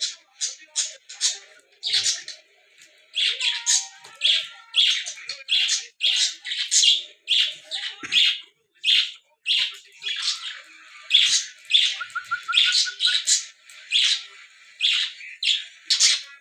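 Chukar partridges calling: a rapid, continuous run of short, bright, repeated calls, with a quick series of lower, evenly spaced pips about 12 seconds in.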